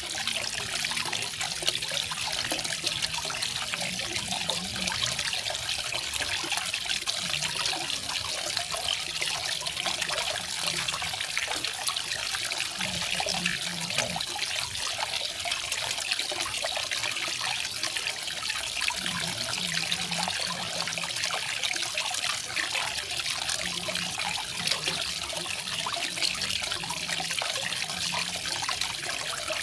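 Small garden waterfall: water falling and splashing steadily into a pool, a constant bright trickling rush.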